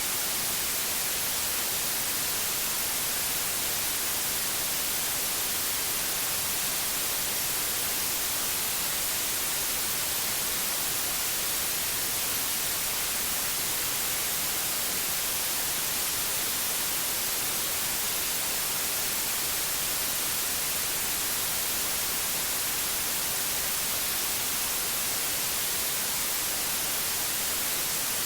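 Steady synthetic white noise: an even, unbroken hiss, brightest in the high frequencies, with no change throughout.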